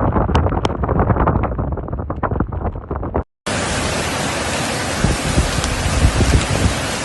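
Wind buffeting the microphone with a low rumble and scattered ticks, then, after an abrupt cut, a steady, even rushing hiss of heavy water.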